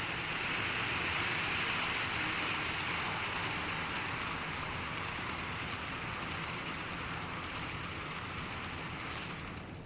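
HO-scale model train running on the track, with a Proto 2000 locomotive pulling a long string of coal cars: a steady whirring rush of motor and wheels on rails, easing off slightly near the end.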